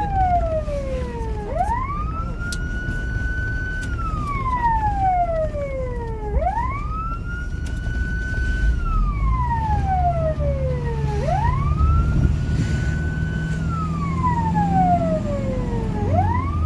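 Fire engine siren on a slow wail: each cycle rises quickly to a high pitch, holds about a second, then falls slowly over two to three seconds, repeating about every five seconds. The truck's engine runs underneath.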